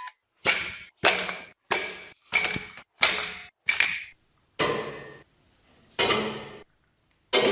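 A series of about nine sharp strikes at an uneven pace, each with a short ringing tail that dies away.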